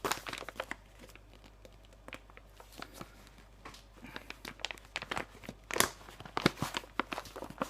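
Crinkling and tearing of a plastic pouch of loose-leaf chewing tobacco being handled and opened, as irregular crackles that grow busier and louder near the end.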